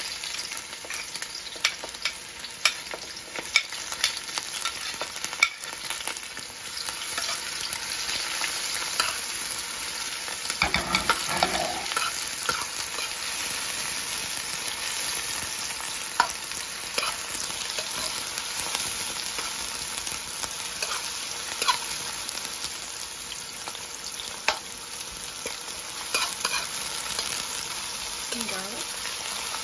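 Food sizzling as it fries in hot oil in a pan: a steady hiss with scattered sharp clicks.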